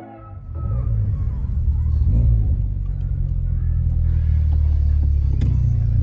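Car engine running under load with a steady low drone that builds during the first second, as when the car is driven and accelerating. A single sharp click comes about five and a half seconds in.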